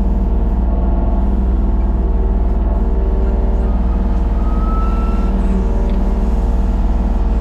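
Large engine running steadily at a constant speed: a deep, even drone that does not rise or fall.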